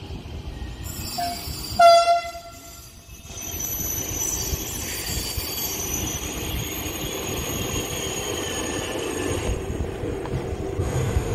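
SNCF TGV high-speed train sounding a short horn blast about two seconds in, then rolling slowly into the station with a high squeal from its wheels and brakes, the rolling noise growing louder as it draws alongside.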